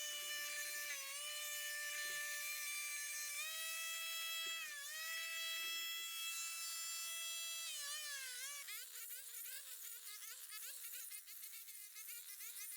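A small motor runs with a high, steady whine. Its pitch dips briefly now and then, rises about three and a half seconds in, then drops near eight seconds and wavers lower. A few soft thuds come in the first half.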